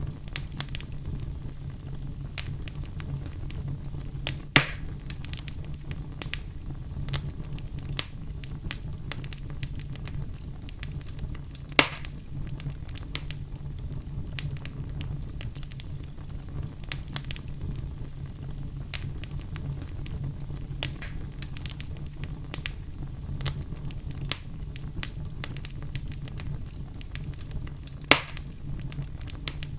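Wood fire crackling in a fireplace: a steady low rumble of the flames under a constant scatter of small crackles, with three louder sharp pops, about four seconds in, about twelve seconds in and near the end.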